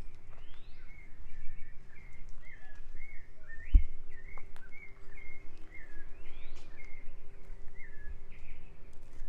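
Several birds singing in overlapping short warbling phrases, with a couple of rising calls, over a low rumble of outdoor noise and a faint steady hum. A single thump a little before the halfway point is the loudest sound.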